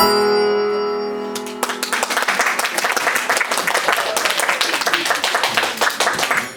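The last chord of a song with piano accompaniment rings out, then the audience breaks into applause about a second and a half in, many hands clapping.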